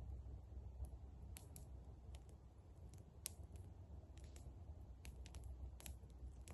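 Campfire crackling faintly: sparse, irregular sharp pops and clicks over a low background rumble.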